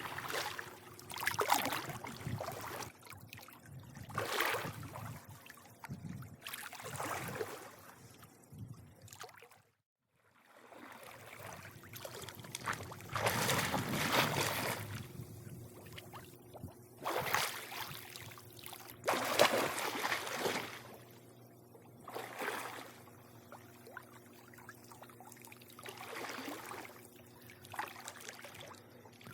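Pool water lapping and sloshing in irregular surges every second or two over a steady low hum. The sound drops out almost completely for about half a second near ten seconds in.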